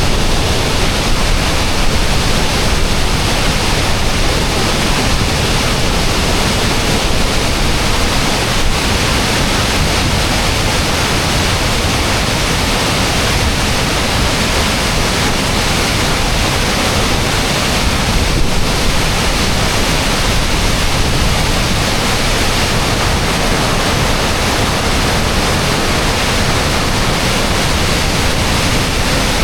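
Kakabeka Falls, a large river waterfall, crashing with a loud, steady rush of falling water.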